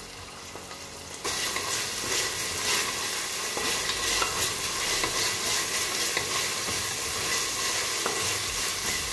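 Sliced onions and ginger-garlic paste sizzling in hot oil in a pressure cooker, stirred and scraped with a wooden spatula. The sizzle gets much louder about a second in and stays steady.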